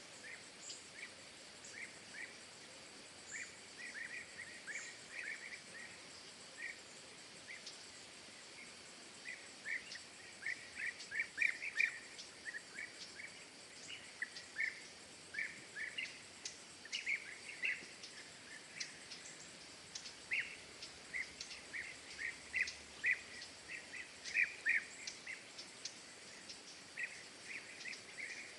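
Small songbirds chirping at a feeder: short chirps in quick clusters throughout, with fainter high ticks, over a steady background hiss.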